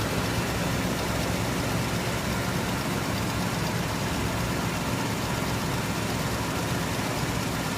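1983 Buick Electra's carbureted engine idling steadily while it warms up after a cold start, having sat for five months.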